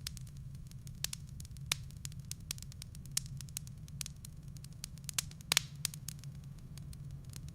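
Wood fire burning in a fireplace: the firewood crackles with irregular sharp pops, several a second, over a steady low rumble. The loudest pops come about three quarters of the way through.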